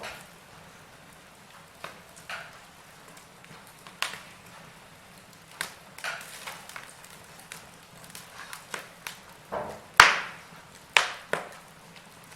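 Wood fire crackling in a fireplace: irregular sharp pops and snaps over a faint steady hiss, with the two loudest pops about a second apart toward the end.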